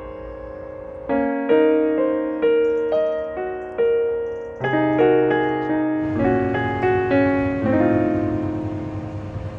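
Soft background piano music: a slow melody of single notes over sustained bass notes, with a brief pause about a second in before the melody resumes.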